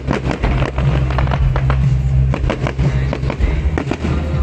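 Fireworks going off in a rapid crackling barrage of many bangs a second, thinning out near the end, over music with a steady low bass.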